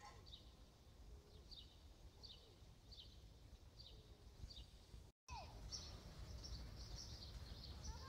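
Faint birdsong: a bird repeats a short, falling high chirp about once a second. After a brief dropout about five seconds in, busier chirping from several birds takes over. A low rumble of wind on the microphone runs underneath.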